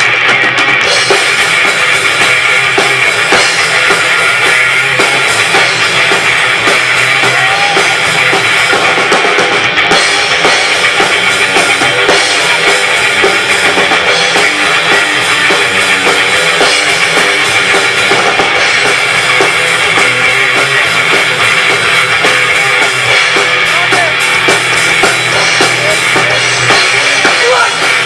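A rock band playing live, with a drum kit and kick drum prominent under guitar, loud and continuous throughout.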